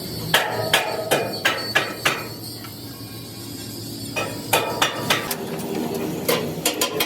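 Hand hammer striking steel in steady blows, about three a second. The blows stop for about two seconds in the middle, then start again.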